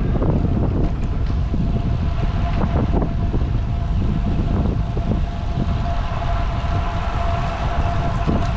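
Wind rushing over the microphone of a road cyclist riding at speed: a loud, steady low rumble. A faint steady tone joins about halfway through.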